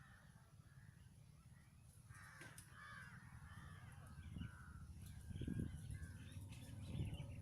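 Harsh bird calls, several in a row from about two seconds in, over a low rumble.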